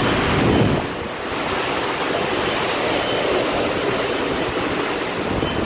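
Hurricane wind and driving rain making a steady rushing noise, a little stronger in the first second.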